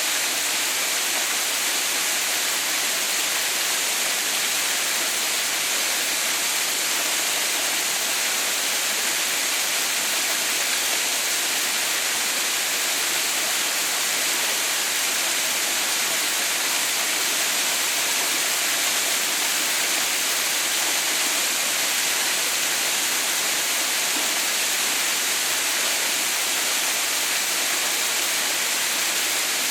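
Waterfall running steadily, its water still falling while the fall is frozen into an icefall: an even, unbroken rushing hiss, bright and high-pitched, that doesn't change.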